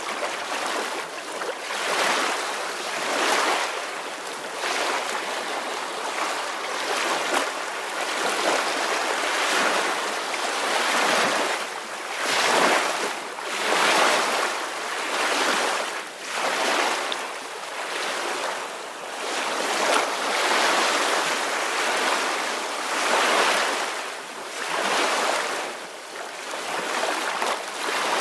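Ocean waves washing ashore: a continuous hiss that swells and eases every second or two.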